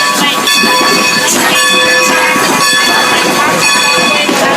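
Baldwin 2-10-0 Decapod steam locomotive pulling in slowly, with several steady high ringing tones held over the rumble of the moving train.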